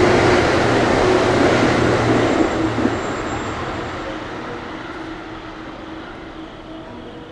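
JR West electric train running along the platform, a loud rumble of wheels and motors that fades steadily away over several seconds.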